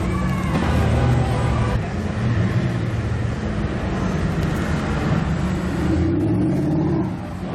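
Supercar engine running in street traffic, its low exhaust note steady throughout, with a brief falling tone in the first second.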